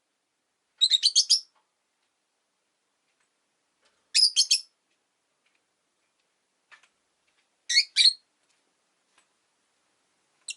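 Rosy-faced lovebirds giving short bursts of rapid, shrill high-pitched chirps, three clusters of a few quick notes each with pauses between, and one more brief chirp at the end.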